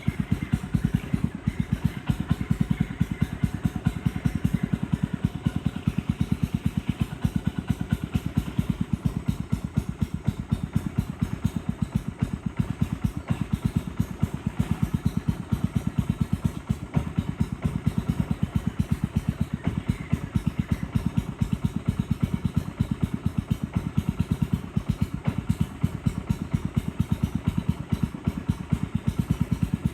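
Boat engine running steadily, a fast, even train of low pulses that keeps on without change.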